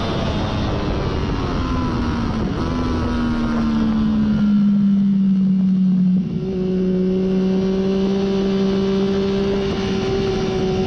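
Triumph Daytona 675's inline three-cylinder engine through a Hindle slip-on muffler, heard onboard over wind noise. The engine note falls as the bike slows, then holds a steady pitch with a brief break about six seconds in.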